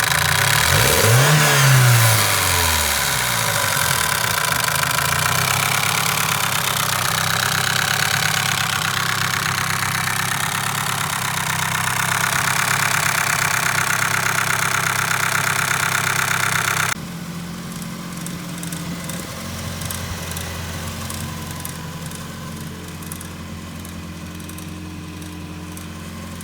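Mazda Miata's B6ZE four-cylinder engine running at idle, blipped up and back down once near the start, then dropping suddenly to a quieter steady low hum with faint ticking about two-thirds of the way through. The engine is making bad noises after running low on coolant, and the owner fears it is damaged.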